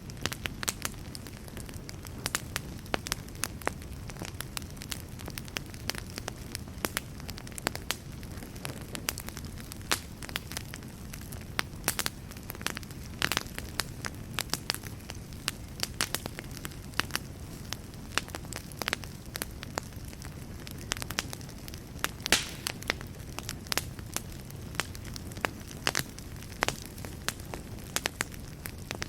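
Wood fire burning in a fireplace: a steady low rush of flames with frequent sharp, irregular crackles and pops of burning wood.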